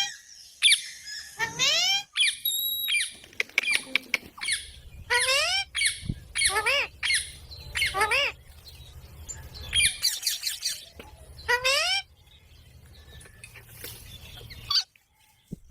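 Ringneck parakeet giving a string of short, shrill calls, each rising and falling in pitch, in quick clusters. The calls stop about twelve seconds in, leaving only faint background.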